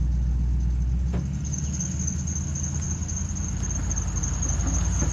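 An engine running at low revs: a steady low rumble, with a thin high whine above it and a single click about a second in.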